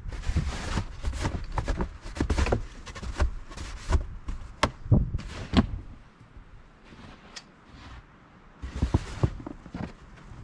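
Snow being shovelled by hand: a run of rough scrapes and sharp knocks through the first six seconds, then a quieter spell, then one more scrape about nine seconds in.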